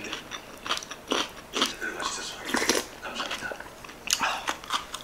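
Close-miked mukbang eating: chewing mouthfuls of sundae gukbap (pork and blood-sausage soup) in short, irregular strokes, with some crunching.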